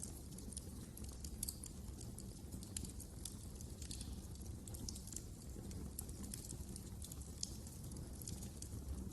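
Wood fire crackling in a fireplace: irregular small pops and snaps, several a second, over a low steady rumble of burning.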